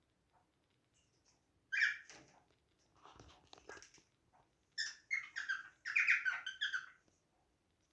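Cockatiel chirping: a single sharp call about two seconds in, softer chatter, then a quick run of chirps near the end.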